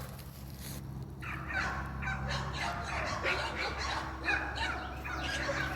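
Birds calling in the background, many short calls overlapping from about a second in, over a steady low hum.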